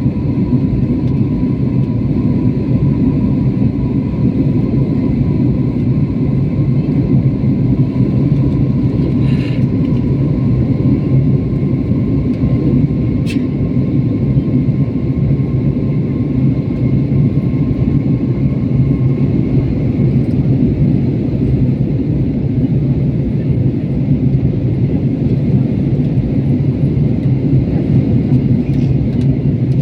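Steady low rumble of airliner cabin noise, with a faint high tone that fades out about two-thirds of the way through and a single sharp click about halfway through.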